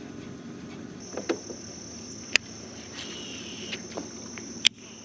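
A steady, high-pitched insect drone starts about a second in over a low outdoor hum. Two sharp clicks sound about a second and two seconds apart from each other.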